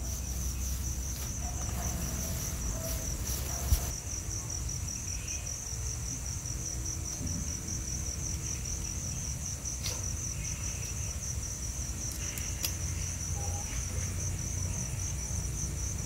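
Crickets chirping in a continuous, rapid high-pitched trill, with a couple of faint clicks.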